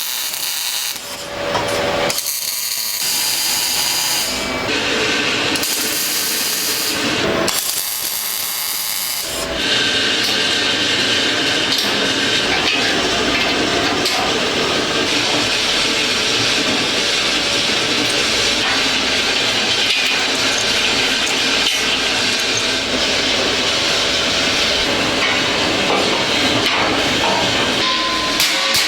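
Workshop power-tool noise: a steady, rasping abrasive sound from about ten seconds in, after several short, separate bursts of tool noise.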